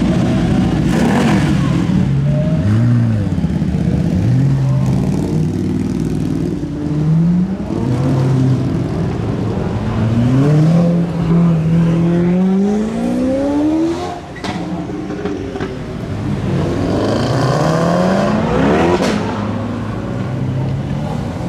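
Supercar engines revving and accelerating hard as they pull away, the engine note climbing in pitch again and again. There is a sharp crack about two-thirds of the way through and another near the end.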